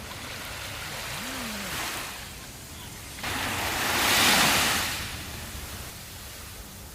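Sea waves washing onto a sandy beach: a gentle swell early on, then a louder wave that breaks about three seconds in, peaks a second later and fades back to a steady wash.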